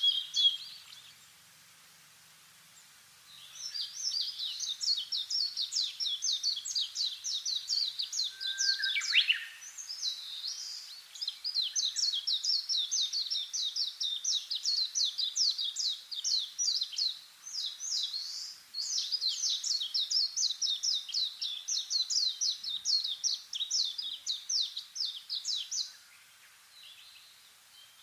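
Wild birdsong: a bird repeating fast, high notes in long trilled runs several seconds each, separated by short pauses, with one lower downslurred call near the start of the first run.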